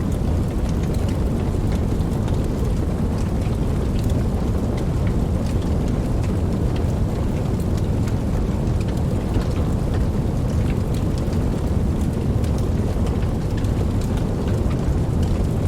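Steady heavy rain with a deep, low rumble and scattered drop ticks, unchanging throughout.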